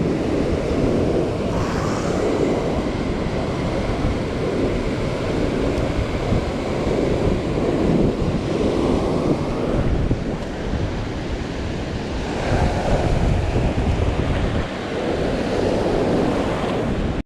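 Heavy storm surf breaking and washing up the beach in repeated surges, with wind buffeting the microphone.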